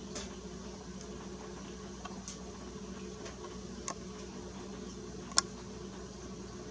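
A few sharp clicks from small birds pecking at sunflower seed on a feeder, four in all, the loudest a little over five seconds in, over a steady low hum.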